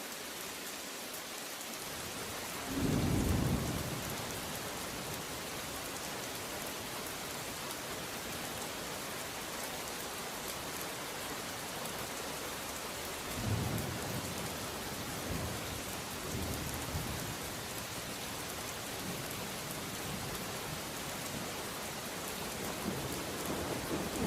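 Heavy rain falling steadily, with thunder. A loud thunderclap comes about three seconds in and another rumble about halfway through, followed by fainter rolls of thunder.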